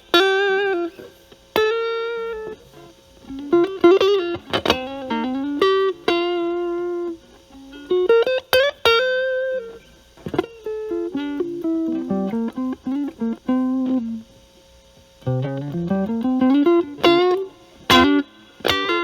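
Stratocaster electric guitar played through a Metal Pedals Rawhide overdrive pedal set at about 10–11 gain into a Marshall Valvestate amp's clean channel. It plays bluesy single-note lead phrases with bends, held notes with vibrato, and a long upward slide near the end.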